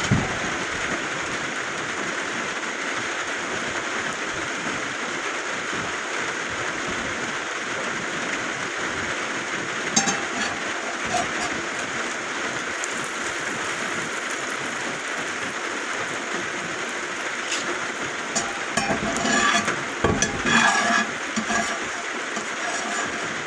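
Steady hiss of rain falling on the roof. There are a few light clinks about ten seconds in and a cluster of clinks and knocks from metal cookware a few seconds before the end.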